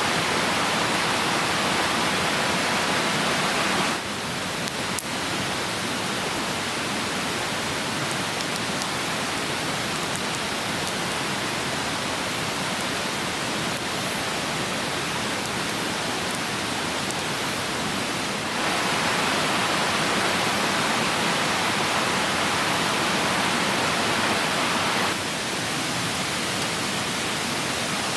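Stream water rushing: a steady, even rush whose loudness steps down about four seconds in, up again around eighteen seconds and down near twenty-five seconds. A single faint click sounds about five seconds in.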